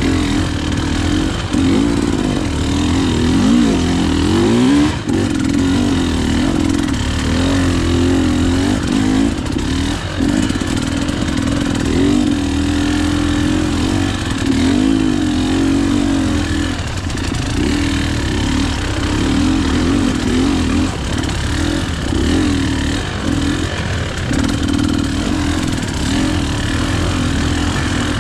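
KTM EXC 300 two-stroke enduro bike engine running under load, its revs rising and falling continuously as it is ridden off-road.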